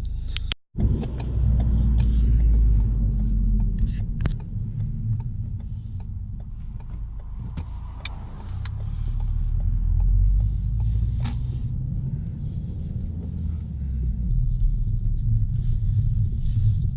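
Ford Focus ST being driven: a steady low rumble of engine and road noise, swelling and easing, with a few light clicks and knocks. The sound drops out briefly less than a second in.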